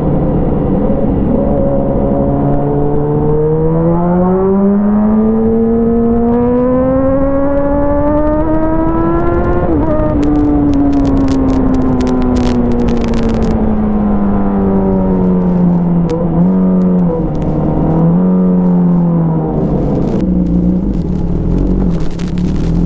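Motorcycle engine through an Avionic aftermarket exhaust, pulling with the revs climbing steadily for about ten seconds, then easing off and dropping back slowly. A run of sharp crackles comes just after the peak, and there are two brief blips in pitch near the end.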